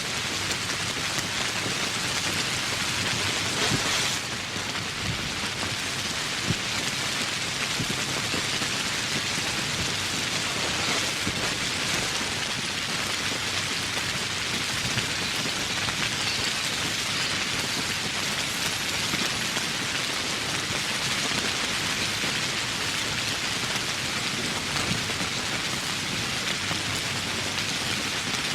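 Steady rain falling: a dense, even hiss of countless drops that barely changes in strength.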